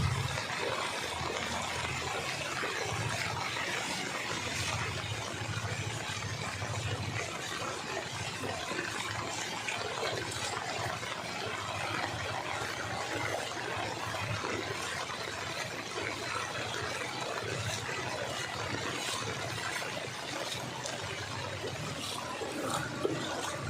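Steady rushing and trickling of floodwater running.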